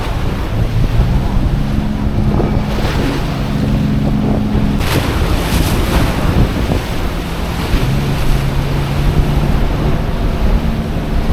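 Wind buffeting the microphone over choppy water, with a boat motor humming underneath at a steady pitch that shifts up and down a few times.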